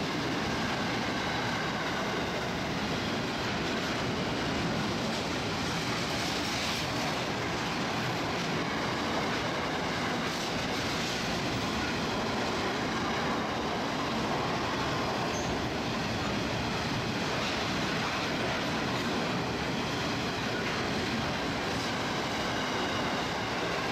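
Freight wagons of a steel train rolling past at speed, a steady rumble and rattle of wheels on the rails. A faint high wheel squeal comes through at times.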